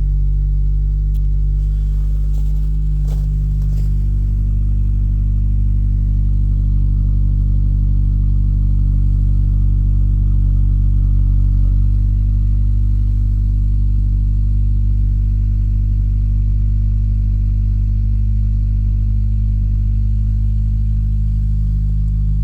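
2021 Hyundai Sonata N-Line's 2.5-litre turbocharged four-cylinder idling steadily through its stock exhaust after a cold start at −12 °C, its pitch settling slightly about a second in and then holding even.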